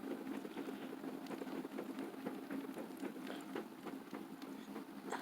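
Fire burning and crackling, with many small irregular pops and snaps over a soft steady hiss.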